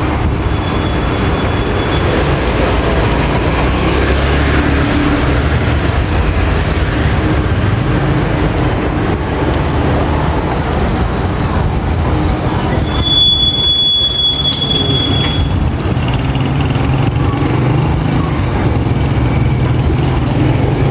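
Steady rumble of a vehicle moving through town traffic, with a high thin squeal lasting about two seconds just past the middle.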